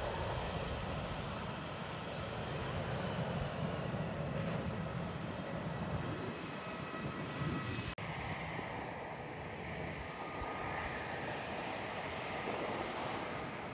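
Jet airliner's engines running, a steady rumble with a faint whine, with surf underneath. The sound cuts out for an instant about eight seconds in.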